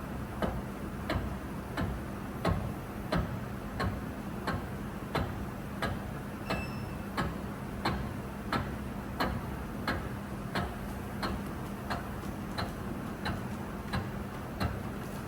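A machine cutting a bearing lock groove in an engine main bearing cap: a steady motor hum with a regular click about three times every two seconds. A brief high beep comes about six and a half seconds in.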